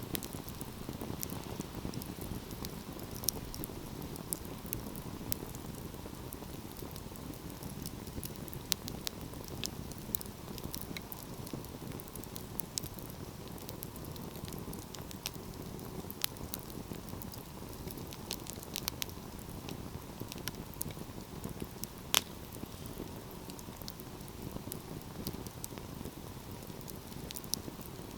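Wood fire burning with a steady low rush of flames and irregular crackles and pops of burning wood, one louder pop about 22 seconds in.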